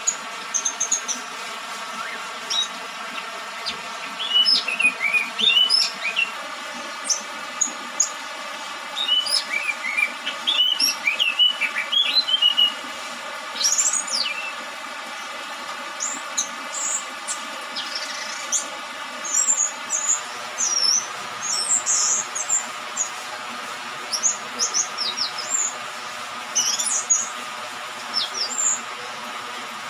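Young orange-headed thrush, just out of its spotted juvenile plumage, giving scattered short chirps and quick twittering phrases over a steady background hiss. The hiss changes in tone about six seconds in and again about twenty seconds in.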